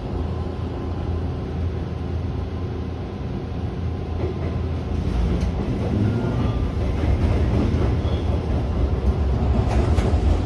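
Electric train running slowly through the station's points, heard from inside the front of the train: a steady low rumble with a few sharp wheel clicks over the rail joints near the end.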